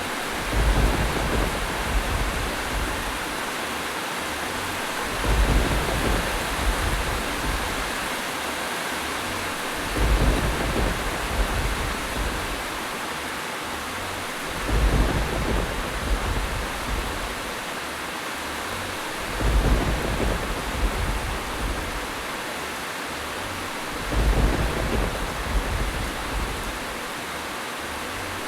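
Steady rain hiss with a low thunder rumble swelling at even intervals, about every five seconds, six times over.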